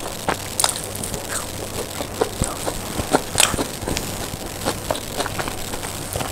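Close-up chewing of a mouthful of chicken doner wrapped in soft naan with salad: irregular soft clicks and small crunches from the mouth.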